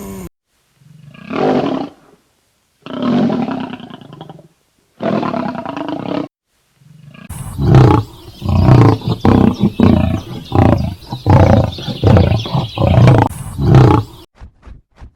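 A large animal calling: three long, low calls, then from about halfway a rapid run of loud, short grunting calls that stops shortly before the end.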